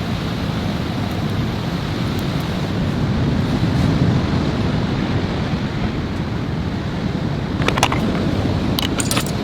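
Steady stormy weather noise of wind, rain and sea waves, heavy in the low end, with a few sharp clicks near the end.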